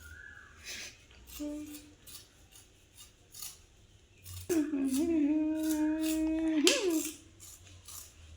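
Light clicks and taps of kitchen utensils, then about halfway through a person hums one long steady note for about two seconds, bending upward at the end.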